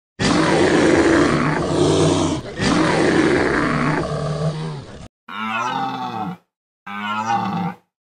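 Bear growling: one long, low growl with a brief break about halfway through, then two shorter calls about a second long that rise and fall in pitch.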